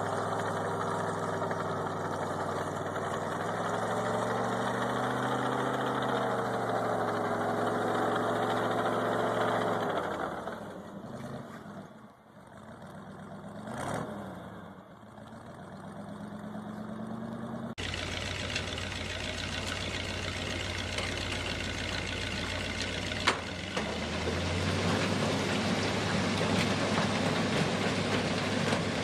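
Engine of a heavy machine running, its pitch rising and falling, fading out about ten seconds in. After a sudden change, a different, noisier engine rumble runs steadily, with one sharp click partway through.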